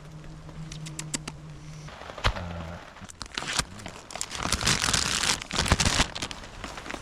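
Plastic packaging crinkling and rustling as it is handled, loudest a little after halfway. A low steady hum stops about two seconds in.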